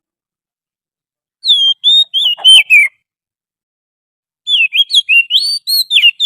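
Oriental magpie-robin song in a lure recording: two phrases of quick, varied whistled notes, the first about a second and a half in and the second near the end, with dead silence before and between them.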